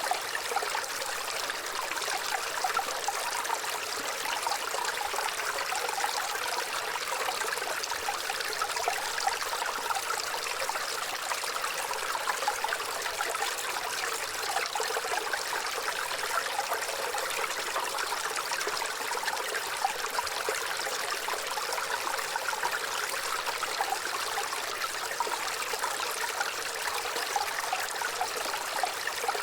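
Waterfall: water falling and splashing in a steady, unbroken rush, hissy and bright with little low rumble.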